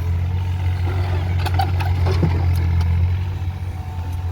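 A JCB digger's diesel engine running with a steady low hum, with several sharp metallic knocks from the working machine in the middle.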